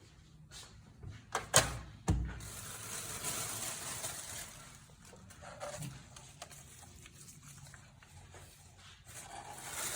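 Craft materials being handled on a work surface: three sharp clacks about a second and a half in, then dry rustling of cardboard and coco-husk fibre that fades and picks up again near the end.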